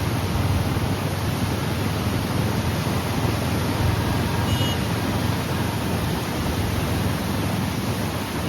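Heavy flood release from a dam's spillway gates: water rushing steadily.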